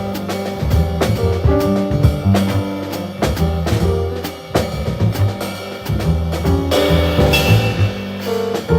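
Jazz piano trio playing: piano, double bass and drum kit, with a cymbal wash near the end.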